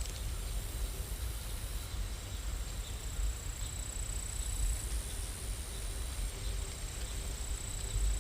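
Steady rain ambience: an even hiss with a low rumble underneath and a thin high whine that fades in and out.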